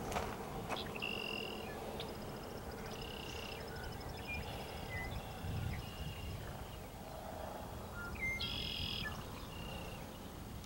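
Birds calling over farm fields: short, high buzzy phrases a few seconds apart, with a long run of rapid high ticking in the middle. Underneath is a low, steady noise, and a couple of sharp clicks come right at the start.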